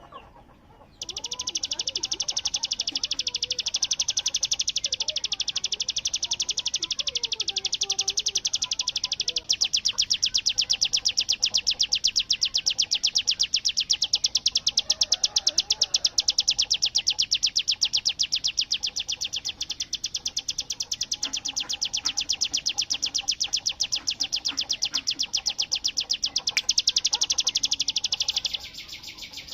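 A ciblek (prinia) singing its 'bren' song: one unbroken, high, very fast machine-gun-like rattling trill. It starts about a second in and runs for nearly half a minute before stopping near the end.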